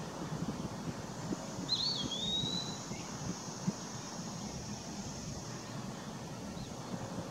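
Eastern wood-pewee giving a single clear, whistled, slurred note, about a second long, a couple of seconds in, over a steady low rumble.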